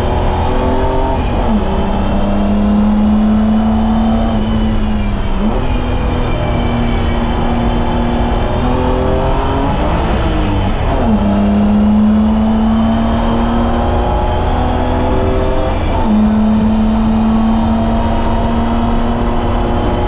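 BMW M20B25 straight-six engine of an E30 running hard on track. Its note climbs steadily under acceleration and changes pitch abruptly about four times as the driver shifts gears and lifts.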